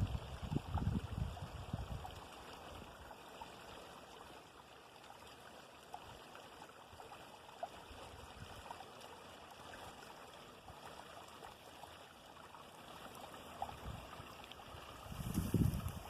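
A small creek running steadily, a soft even rush of water. Low thuds come in the first couple of seconds and again near the end.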